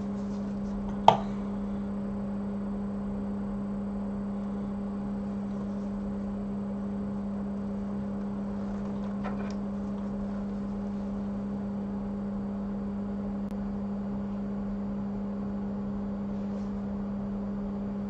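Steady low machine hum, with one sharp click about a second in and a few faint ticks near the middle.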